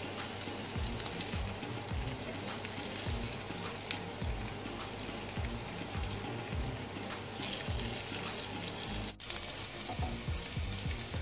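Marinated chicken pieces sizzling steadily in hot oil in a non-stick frying pan over a medium flame, with soft knocks and scrapes of a wooden spatula against the pan as the pieces are moved. The sizzle drops out for a moment about nine seconds in.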